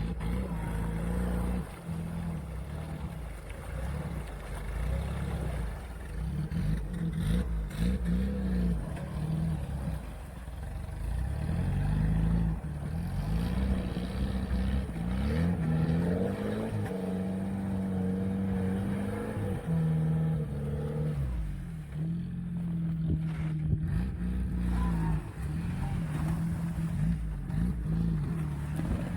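UAZ off-roader's engine running under load while driving, its pitch rising and falling repeatedly as the revs change.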